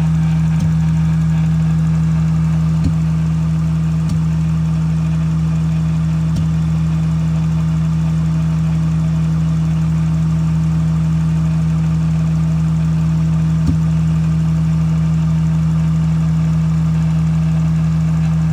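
Engine idling steadily with a sharp tick or pop that comes and goes, about five times at irregular intervals. The owner is not sure whether it is a misfire.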